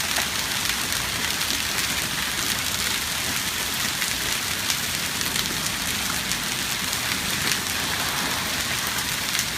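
Hail falling steadily: a dense patter of hailstones striking hard surfaces, with many sharp individual clicks.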